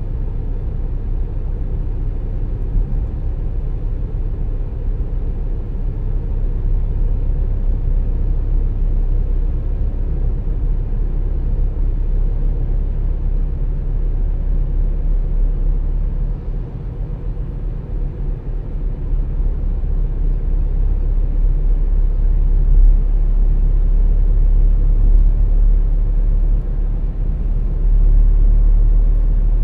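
Car driving on the road, a steady low rumble of tyres and engine. It dips briefly about halfway and grows louder toward the end.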